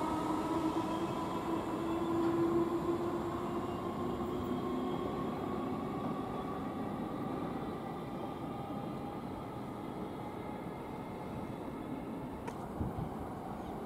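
Electric multiple-unit train running through the station with a steady rumble, its motor whine falling slowly in pitch as the sound gradually fades. A couple of short clicks come near the end.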